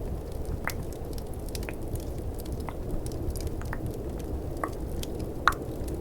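Tongue clicks close to the microphone, about one a second, the loudest near the end. Under them runs a steady low rumble of snowstorm and fireplace ambience with faint small crackles.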